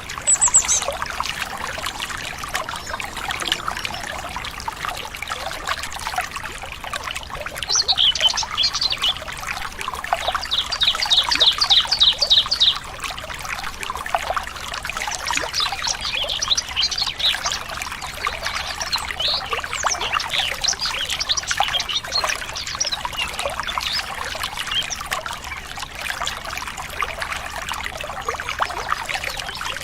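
Stream water trickling and splashing steadily, with birds chirping over it. About ten seconds in, one bird gives a fast run of evenly repeated notes, about five a second for roughly two and a half seconds, the loudest sound; other short high chirps come and go.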